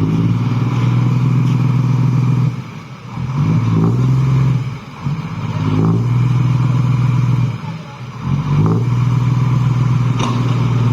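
A vehicle engine running steadily under load, its pitch and level dropping briefly three times, as when easing off or changing gear.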